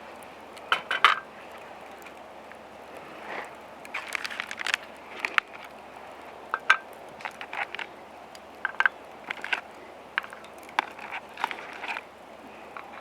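Irregular clinks, knocks and clatter of camp cooking gear being handled, a few with a short ringing ring like metal or glass.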